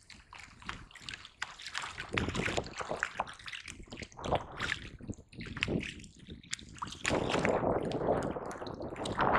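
Seawater sloshing and dripping around a kayak, with many small splashes and knocks. A louder, steady rush of water joins about seven seconds in.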